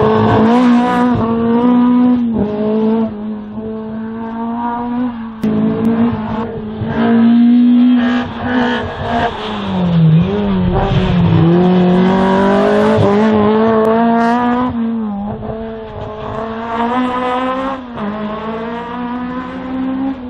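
Race car engine held at high revs through a slalom run. Its pitch dips sharply and climbs back several times as the driver lifts, brakes and accelerates between the cones, with tyres squealing at times.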